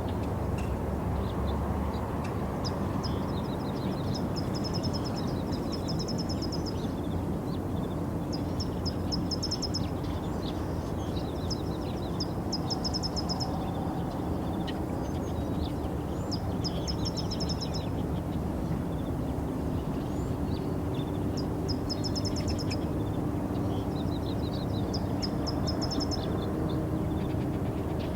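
Small birds chirping in short, rapid trills every second or two over a steady low rumble of outdoor background noise.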